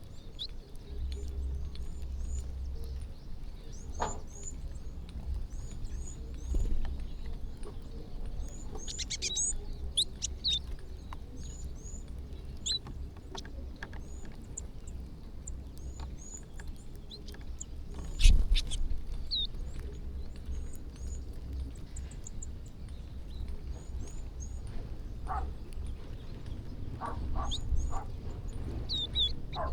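Small birds chirping with many short, high calls over a steady low rumble. A single sharp knock about two-thirds of the way through is the loudest sound.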